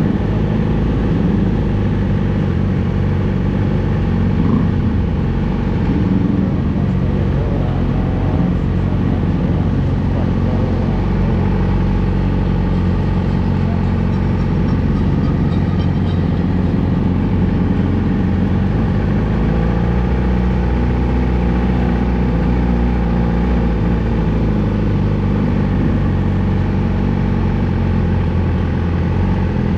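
Yamaha YZF-R6's inline-four engine breathing through a Two Brothers full exhaust system, running with its pitch rising and falling over the first ten seconds or so, then holding steadier and lower.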